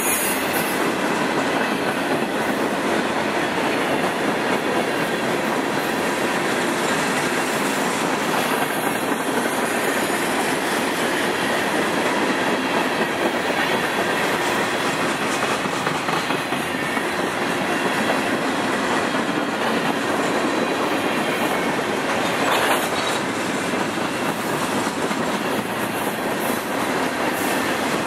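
Freight train cars (boxcars, hoppers and tank cars) rolling past close by: a steady rumble and clatter of steel wheels on rail.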